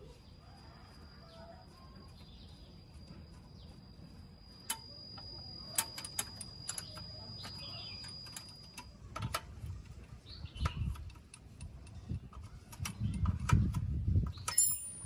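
Metal parts being handled and knocked: scattered sharp clicks, a run of dull thuds in the last few seconds, and a ringing metallic clink near the end. A faint steady high-pitched tone runs through the first half.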